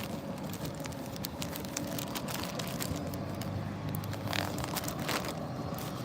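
Steady low rumble of Atlantic surf and wind across the microphone, with scattered light clicks and a couple of brief noisy gusts about four and five seconds in.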